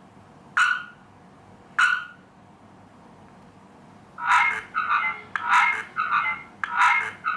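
Electronic chirping beeps: two single chirps about a second apart, then from about four seconds in a quicker run of chirps, about three a second.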